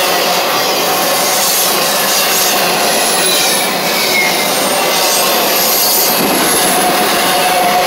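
Norfolk Southern intermodal freight train's loaded well cars rolling past close by: a steady, loud rush and rattle of steel wheels on rail, with faint high wheel squeals sliding slowly in pitch.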